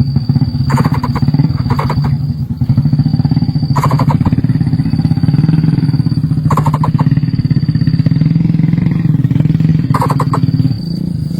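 A small engine running steadily with a fast, even pulse, easing off near the end. Four short bursts of rapid clicking or chirping sound over it.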